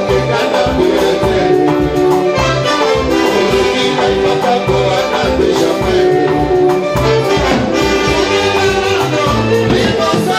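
Live band music with a steady beat, brass-like horn lines and percussion, without singing.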